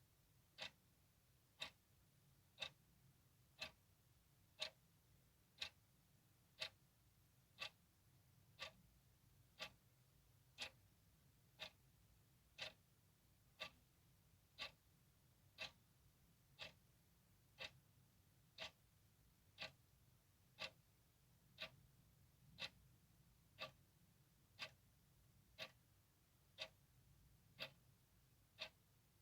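A clock ticking steadily, one short, sharp tick about every second, all evenly spaced and alike, with a faint low hum underneath.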